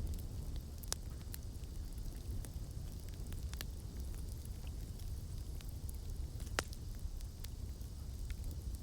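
Campfire burning with a steady low rumble of flame and scattered sharp crackles and pops of burning wood. The loudest pop comes about two-thirds of the way through.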